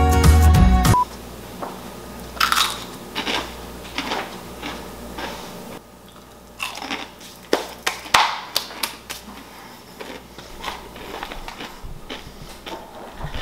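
Beer-battered onion rings being bitten and chewed close to the microphone: a run of irregular, sharp crunches. Background music stops with a short beep about a second in.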